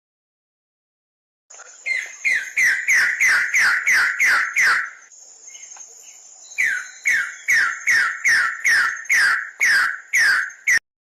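A bird's call: loud, evenly repeated notes, each sweeping sharply down in pitch, about three a second, over a faint steady high whine. It comes in two bouts with a short break between them and cuts off abruptly near the end.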